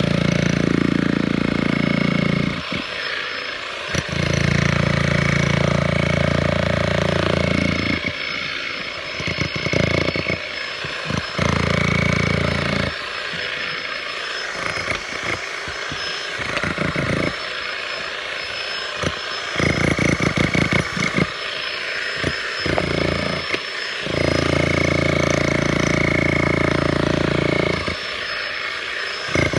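Bosch GSH 11 VC SDS-max electric demolition hammer chiselling into a concrete foundation. It runs in bursts of a few seconds, stops and restarts about seven times.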